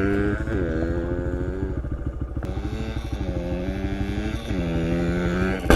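Small pit bike engine running under throttle, its pitch rising and falling about four times as the rider accelerates and eases off.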